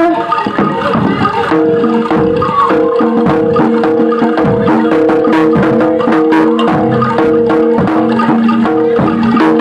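Javanese gamelan music for a jaranan performance: struck metal mallet instruments and drum strokes in a dense, continuous rhythm over steady held notes.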